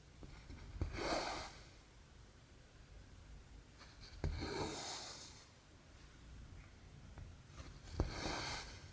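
Cross-stitch needle tapping through the fabric, then cotton thread drawn through with a swish. This happens three times, about every three and a half seconds.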